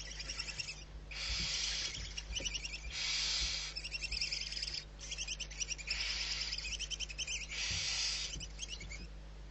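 Barn owl giving repeated hoarse, hissing calls, each under a second long and about two seconds apart, with rapid high ticking between them.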